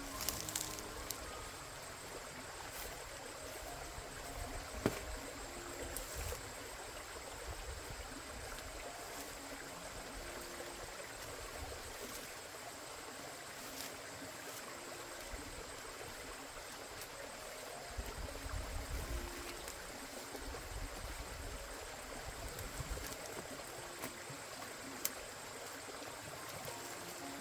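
Water running steadily, like a small stream, with a thin steady high tone over it.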